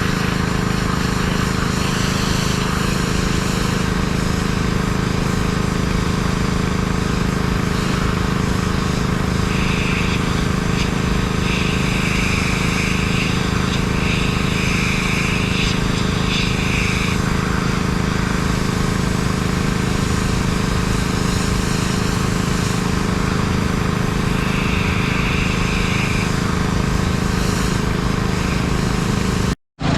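An engine running steadily with an even drone. Short stretches of hiss come and go midway and again later, and the sound cuts out sharply just before the end.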